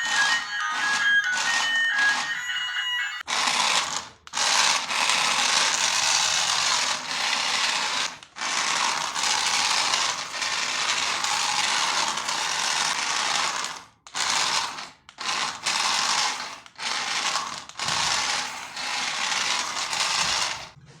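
Quick electronic toy beeps, then a remote-control toy's small electric motor and gears whirring in long spurts that cut off and restart several times.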